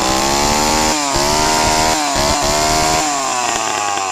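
Large, heavy two-stroke chainsaw running near full throttle, its engine pitch sagging and recovering three times as it works.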